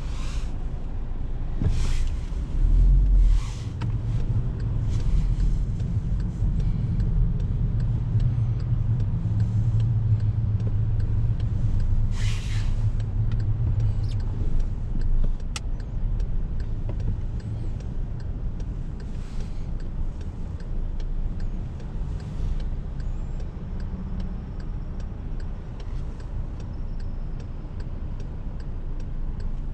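Volkswagen Golf VI 1.4 TSI four-cylinder engine running under way, with steady low road and engine rumble that is heaviest through the first half and then eases. Several short knocks cut through it.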